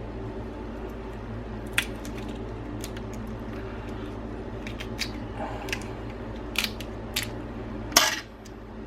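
Crab shells cracking and being picked apart by hand, a scatter of sharp cracks and clicks with the loudest near the end, over a steady low hum.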